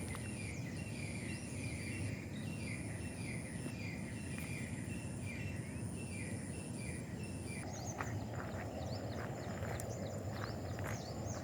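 Outdoor garden ambience: an insect trills high in pulses of about a second, and a bird repeats a short falling chirp about twice a second, both stopping about two-thirds of the way through. After that, a rustling hiss and scattered sharp bird chirps go on, all over a steady low background noise.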